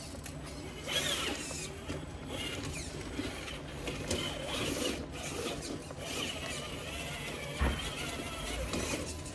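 A Traxxas TRX-4 RC rock crawler's electric motor and gearbox whirring in short, rising and falling spurts as it crawls over rocks, with a single knock near the end.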